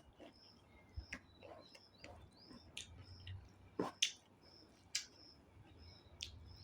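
Close-up mouth sounds of someone eating: wet chewing and sharp smacks and clicks, the loudest a few seconds in. A cricket chirps steadily about twice a second underneath.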